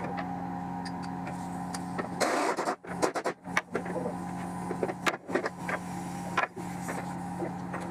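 A steady mechanical hum with scattered sharp knocks and clicks. It cuts out abruptly several times, the first about two and a half seconds in.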